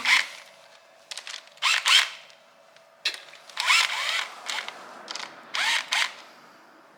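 A cordless power tool runs in four short spurts, each rising in pitch as it spins up, with a few light clicks between them. It is undoing the camshaft bolts on a Lotus V8.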